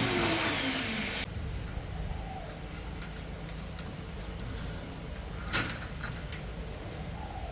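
A loud hiss of escaping compressed air cuts off sharply about a second in. A low steady hum follows, with a few light clicks and one sharper click about five and a half seconds in.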